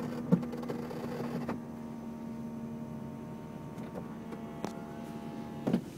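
Electric roof and window mechanism of a 2003 Mercedes-Benz SL55 AMG finishing the hardtop's closing cycle, heard from inside the cabin: a steady hum of motors with a few sharp clicks as parts latch.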